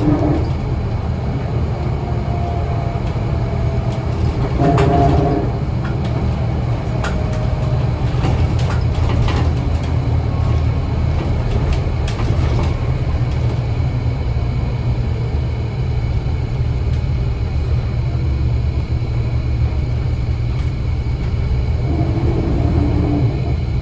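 Scania L94UA city bus running: a steady, loud low engine and road rumble. Rattles and clicks come through between about 4 and 13 seconds in, and a short whine rises near 5 seconds and again near the end.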